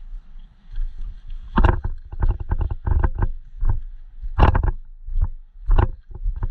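Footsteps on rough ground, about a dozen uneven crunching steps, over a steady low rumble.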